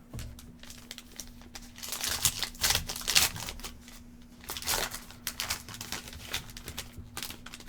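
Foil wrapper of a trading card pack being torn open and crinkled, in two main clusters of rustling and crackling, the louder one about two to three seconds in.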